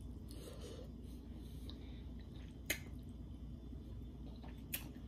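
Quiet, wet chewing and mouth sounds of a person eating rotisserie chicken, with two short sharp clicks, one a little past halfway and one near the end.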